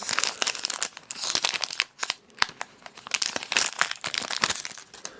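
Foil wrapper of a Pokémon booster pack crinkling and crackling in the hands, with many sharp crackles, fading near the end.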